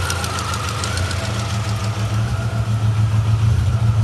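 Chevrolet Zafira engine idling unevenly, missing, with a steady low note that grows slightly louder. The rough running is a sign of a blown head gasket letting water into the engine.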